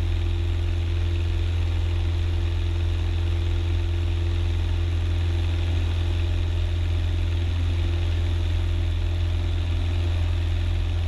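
Cessna 172's single piston engine and propeller droning steadily at climb power, heard from inside the cabin as a constant low hum with a faint steady tone above it.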